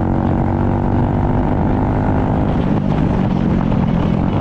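Motorcycle engine running, a steady pitched note that shifts a little past halfway.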